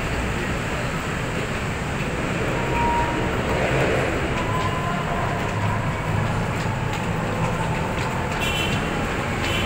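An MRT-3 light-rail train running, a steady low rumble that swells about three seconds in, with a brief high squeal near the end.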